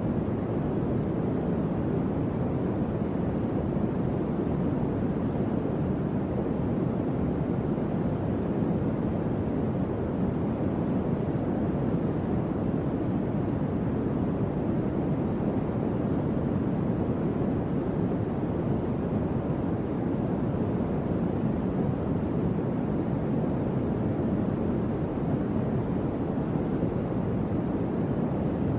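Electric fan running steadily: an even, deep rush of moving air with little high hiss and no change in level.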